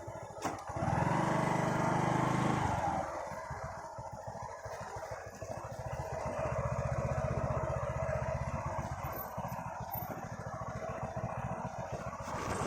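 Motorcycle engine revving up for a couple of seconds about a second in, then running steadily.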